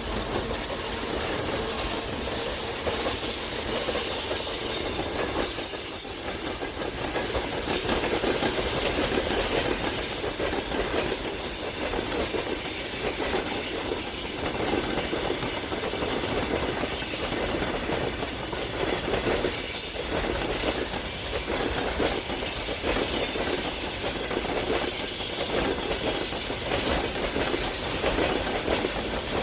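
Train in motion, its wheels clicking over rail joints under a steady running noise.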